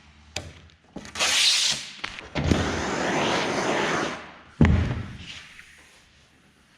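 Handling noise: a few light knocks, a short burst and then a stretch of rustling, then one loud thump about halfway through that fades away over about a second.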